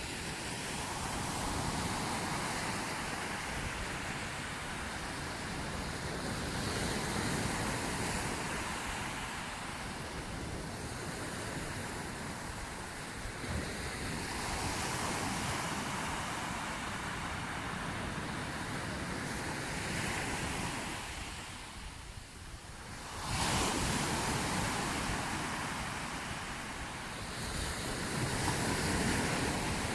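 Sea waves washing ashore: a continuous rushing surf that swells and eases every few seconds. It falls back briefly about three quarters of the way through before a sudden loud surge of a breaking wave.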